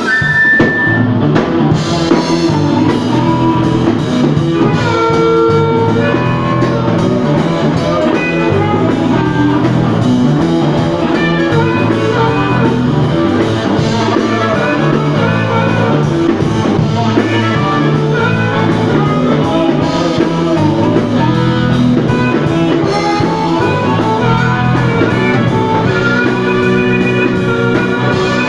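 Blues-rock band playing an instrumental passage between sung verses: guitar over a steady drum kit beat.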